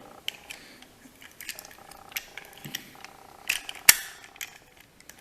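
Light plastic clicks and clatter of a toy train's shell and chassis being handled, with one sharp click about four seconds in.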